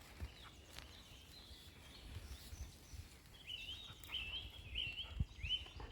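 A small songbird singing: a run of short, rising whistled notes repeated about twice a second in the second half, with fainter high calls before it. Low rumbles and soft thuds sit underneath.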